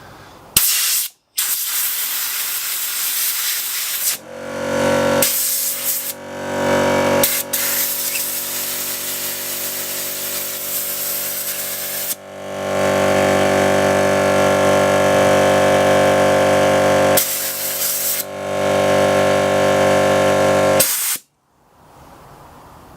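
Compressed air blasting in repeated bursts of loud hiss. About four seconds in, an electric air compressor's motor starts humming underneath. Near the end everything cuts out suddenly as the compressor trips the circuit breaker.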